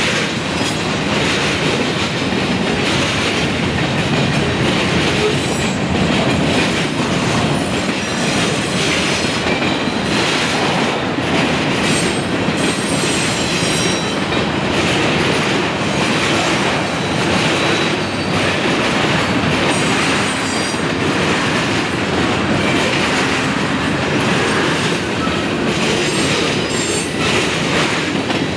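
Two freight trains rolling past at once: a manifest of tank cars, hoppers and boxcars, and a double-stack container train. There is a steady rumble with wheels clacking over rail joints and intermittent high wheel squeal.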